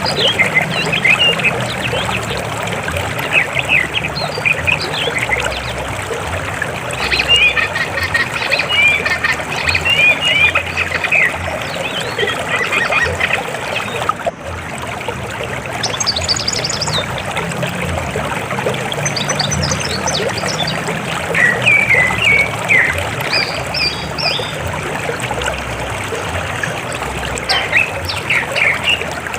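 River water flowing steadily, with clusters of short bird calls over it; the flow drops out for a moment about halfway through.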